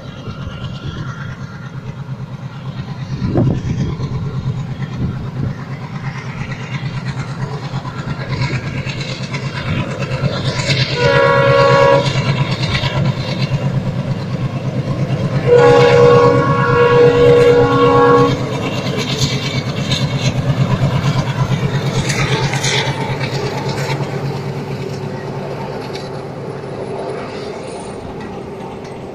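Passenger train running along the track with continuous wheel rumble and clatter on the rails. Its locomotive sounds a multi-note horn twice: a short blast about eleven seconds in, then a longer one of about three seconds a few seconds later.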